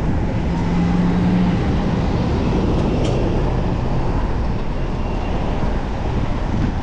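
Steady wind and road noise from riding a bicycle through city traffic, with a brief low hum about half a second to a second and a half in.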